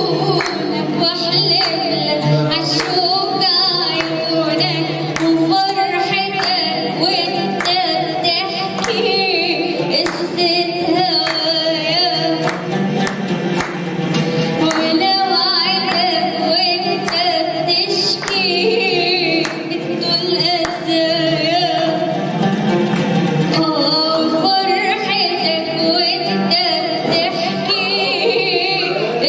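Music: a singer performing a song with instrumental backing and a regular beat.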